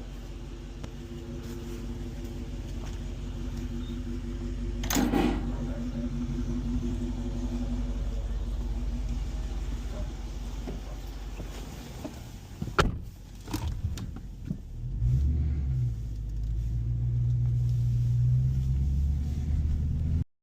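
Inside a car cabin: steady engine and road rumble, with a short louder burst about a quarter of the way in and a couple of sharp clicks or knocks about two-thirds through. The low hum grows louder in the last few seconds.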